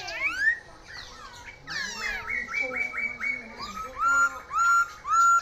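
Songbird singing a varied run of quick whistles, sweeps and trills, which turns in the second half into a string of loud repeated rising whistles, about two a second.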